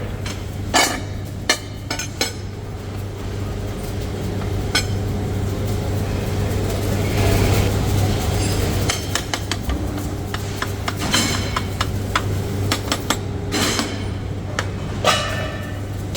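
Irregular metallic clinks and knocks of steel tools and parts being handled in a workshop, some briefly ringing, over a steady low machine hum.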